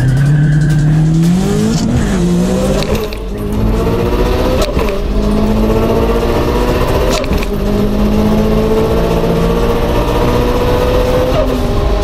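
Car engine heard from inside the cabin, accelerating hard and shifting up through the gears. The pitch climbs, then drops at each upshift, about two, three, five, seven and eleven seconds in.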